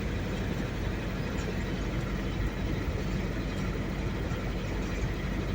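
Steady engine and road noise inside a moving vehicle's cabin during a driving lesson.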